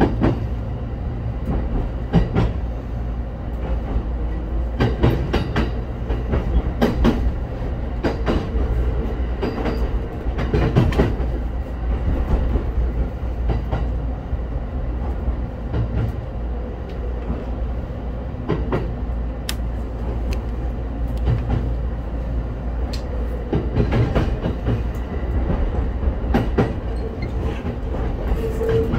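Local train running along the line, heard from aboard. A steady low rumble is broken by irregular clicks and knocks of the wheels passing over rail joints, and a faint steady hum comes and goes.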